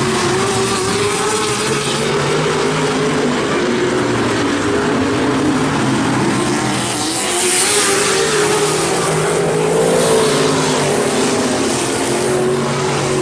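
A pack of dirt-track race trucks running under green, several engines overlapping at racing speed. A louder surge about seven to eight seconds in as trucks pass close.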